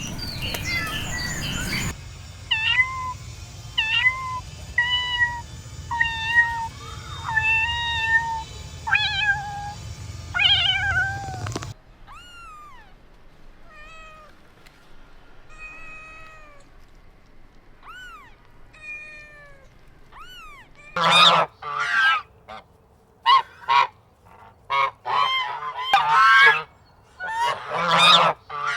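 Kittens meowing: a run of short, high mews about one a second, then fainter mews, and in the last seconds a string of louder, harsher calls.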